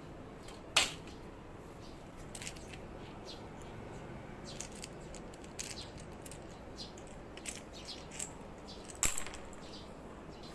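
Scattered sharp clicks and light taps over a steady faint hiss, the two loudest about a second in and near the end.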